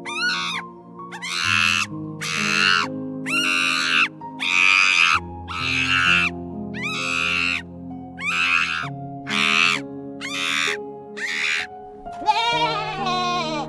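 Gentle background music under a regular run of loud, harsh animal calls, a little under one a second, then a goat bleating with a wavering, quavering voice near the end.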